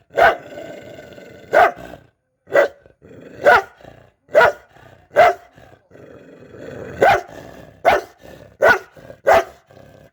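An angry dog barking about ten times, a bark every second or so with a longer gap in the middle, and rough growling between some of the barks.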